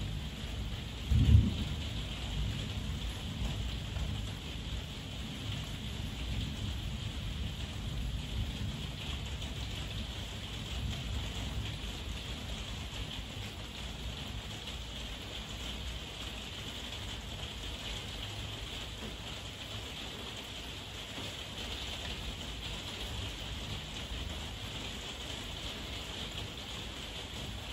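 Heavy rain falling steadily as an even hiss. About a second in, a sudden deep thunderclap is the loudest moment, followed by low rumbling thunder that fades over the next ten seconds or so.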